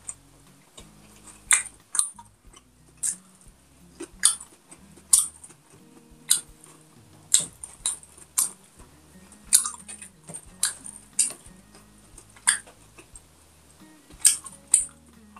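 Close-miked chewing of a mouthful of pork and rice eaten by hand: a string of sharp, wet mouth clicks and smacks, roughly one a second.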